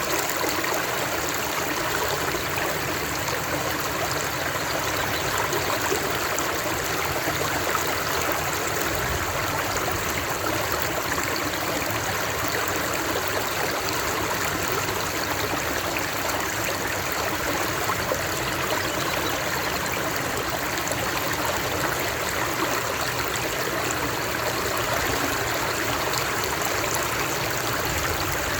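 Running water from a stream, flowing steadily with an even rushing and trickling sound.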